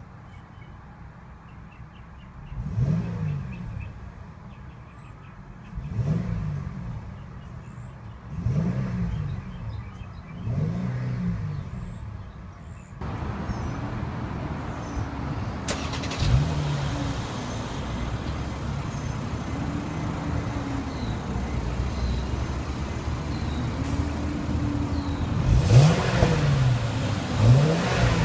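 Mercedes-Benz E350's 3.5-litre direct-injection V6 idling and being blipped: a series of short revs that rise and fall back to idle. About halfway through, a louder, steady noise joins the engine, and the last two revs near the end are the sharpest.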